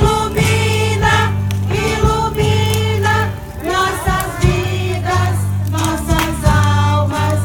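Music: a group of voices singing a song over a steady low accompaniment.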